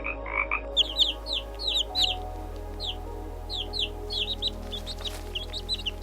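A frog's croaking stops under a second in. Then many quick, high, downward-sliding peeps from chicks follow in rapid succession, over steady background music.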